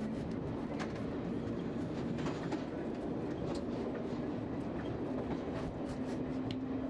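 London Underground A Stock electric train running on the Metropolitan line, heard from the cab: a steady rumble and low motor hum with irregular clicks of the wheels over rail joints.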